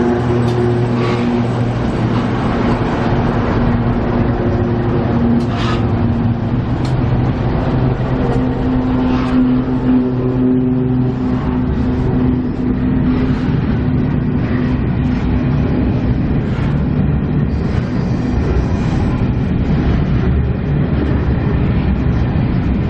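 Diesel locomotive engines of an empty coal train running with a steady low hum that shifts slightly in pitch partway through, and a few sharp clanks.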